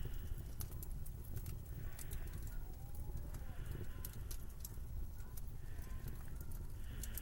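Slow footsteps crunching in snow, about one step every two seconds, over a steady low rumble of winter wind.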